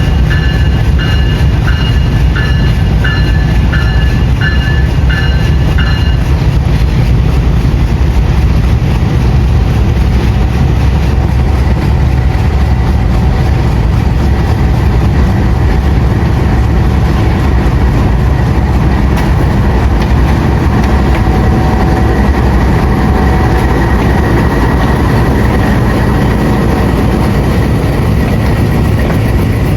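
Train running on the rails with a loud, steady rumble. For the first six seconds a high tone repeats, about one and a half times a second.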